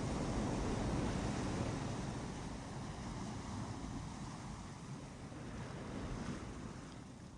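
Ocean surf washing onto a beach, a wave louder in the first couple of seconds and then slowly ebbing away, with wind rumbling on the microphone.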